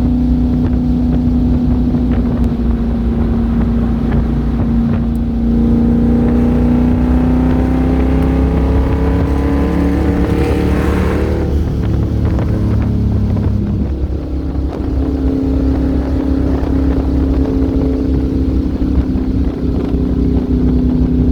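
C3 Corvette's V8 engine heard while driving, with some wind noise. The engine note rises steadily from about five seconds in as the car accelerates, drops back around twelve seconds in, then settles into a steady cruise.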